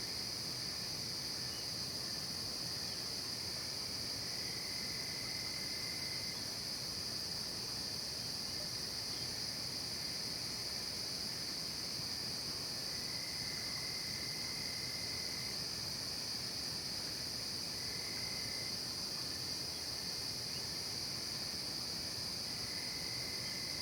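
Night insect chorus of crickets and other insects: a steady high-pitched shrill, with a lower trill that starts and stops about five times, each stretch lasting a second or two.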